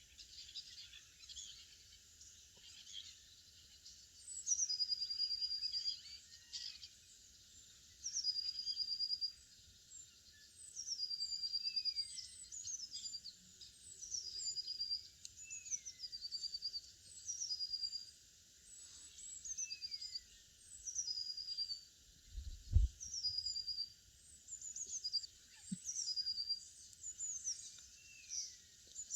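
Songbirds singing. The same short, high phrase repeats every few seconds: a quick run of falling notes ending on a held note, with a lower swooping call now and then. A single low thump comes about three-quarters of the way through.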